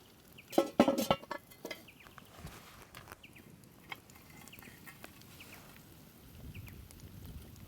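A brief burst of clattering knocks about half a second in, then short high chirps from small birds, repeated at scattered intervals.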